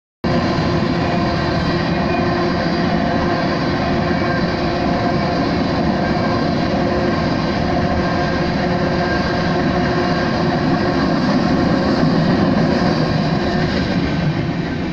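Freight train of tank cars rolling past at a grade crossing: a loud, steady rumble of wheels on rail that begins to fade at the very end as the last car clears.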